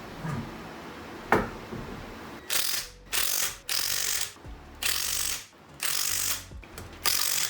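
Hand ratchet wrench clicking in a series of short strokes, about six bursts with brief pauses between them, with a single sharp clink before them: tightening the lug bolts on a freshly mounted wheel.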